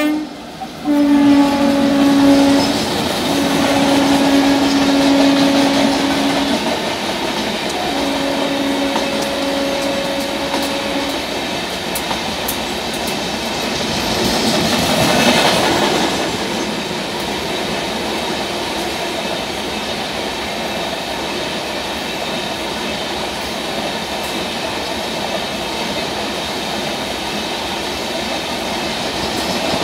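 Indian Railways WAP-4 electric locomotive sounding its horn in several blasts during the first ten seconds or so as it passes at speed. After that comes the steady rushing rumble of the passenger coaches going by, which swells briefly about halfway through.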